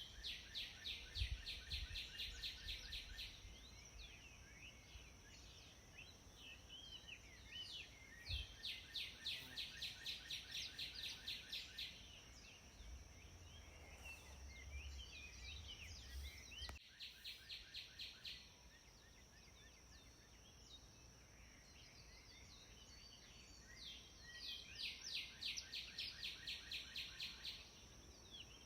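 Birdsong: a songbird repeats a rapid trill of a few seconds three times, with scattered shorter chirps from other birds in between. A steady high-pitched hum and a low rumble run underneath.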